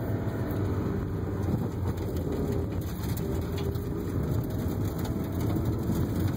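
Car driving, heard from inside the cabin: a steady low engine and tyre rumble.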